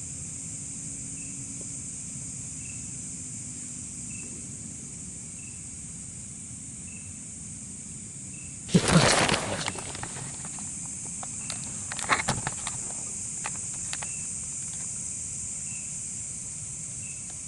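Night insects, crickets among them, trilling steadily, with a faint high chirp repeating about every second and a half. About nine seconds in comes a loud rustle lasting about a second, followed by a few scattered clicks and knocks.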